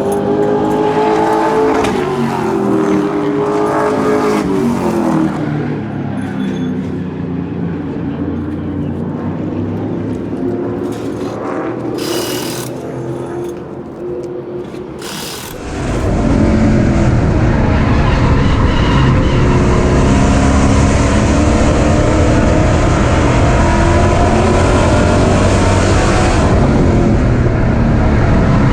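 Super Stock race car running on an oval track, the engine pitch rising and falling. About halfway through the sound jumps suddenly to a much louder, rougher, noisier engine sound that holds steady.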